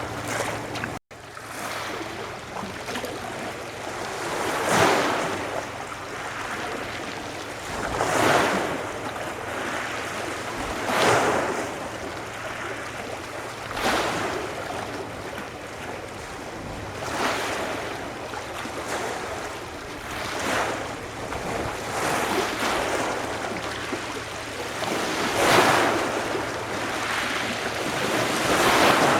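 Sea waves breaking and washing on the shore, a surge every three to four seconds. There is a brief cut to silence about a second in.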